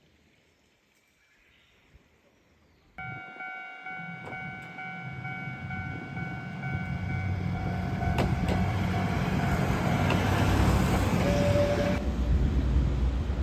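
Near silence for about three seconds, then a diesel railcar comes in suddenly: a steady high tone over a rumble that grows louder. The tone drops away about a second before the end while the rumble keeps on.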